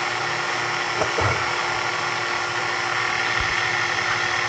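HVAC vacuum pump running steadily with an even mechanical hum, evacuating an air-conditioning refrigerant circuit down toward a 500-micron vacuum.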